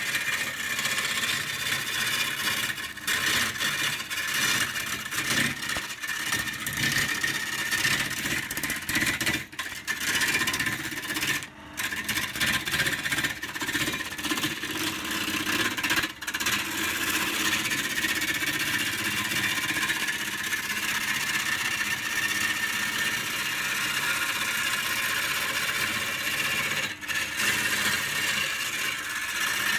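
Wood lathe running while a turning tool cuts the spinning wood: a steady scraping hiss that breaks off briefly a few times as the tool lifts.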